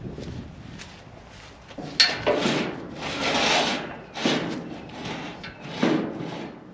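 Parts of a tripod deer feeder being handled and fitted together: a sharp knock about two seconds in, then several rubbing, scraping strokes.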